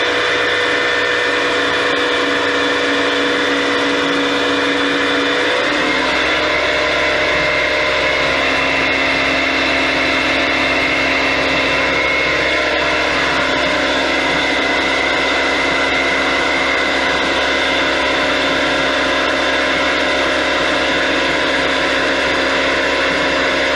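Kunzmann WF7/3 CNC milling machine running: a loud, steady machine whine of several held tones. About six seconds in the pitch shifts and a low hum joins, and the sound then holds steady.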